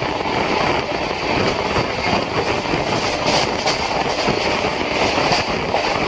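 Rajya Rani Express passenger coach running through a station, heard from aboard: a steady rumble of wheels on the rails with a few sharper clicks about halfway through and near the end.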